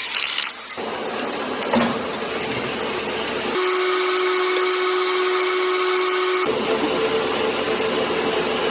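Engine-assembly factory machinery running with steady mechanical hums and tool noise. The sound changes abruptly about three and a half seconds in and again about six and a half seconds in.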